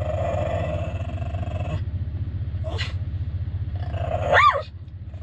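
Dog whining in a long, level tone that stops about two seconds in, then a short high yelp that rises and falls near the end, the loudest sound. Under it runs a steady low rumble.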